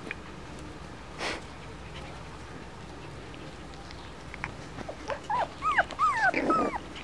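Five-week-old F1b Cockapoo puppies yipping and squealing at play: a quick run of short, high-pitched, arching cries in the second half, after a brief scuffling rustle about a second in.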